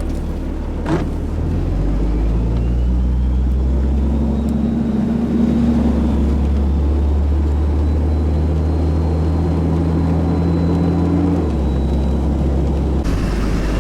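Car engine and road noise heard from inside the cabin while driving: a steady low hum that steps up in pitch about two seconds in and drops back near the end.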